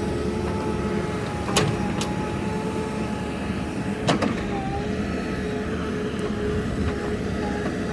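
JCB 3DX backhoe loader's diesel engine running steadily with a low rumble and a steady whine, with three sharp knocks about one and a half, two and four seconds in.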